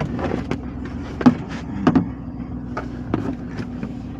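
Car engine idling, heard from inside the cabin, with a series of clicks and knocks as a seat belt is unbuckled and fastened again; the two loudest knocks come about a second and two seconds in.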